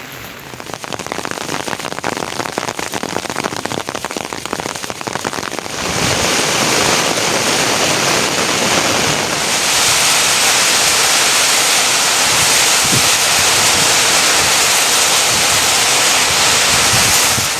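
Heavy rain pouring down, a dense pattering hiss that grows louder in two steps, about six and about nine seconds in, then holds steady.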